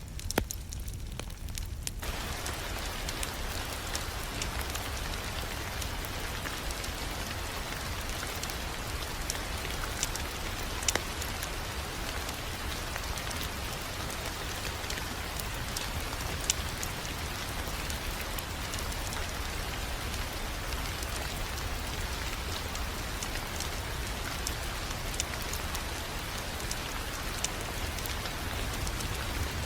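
Wood fire crackling in a fireplace: scattered sharp pops over a steady hiss and a low rumble.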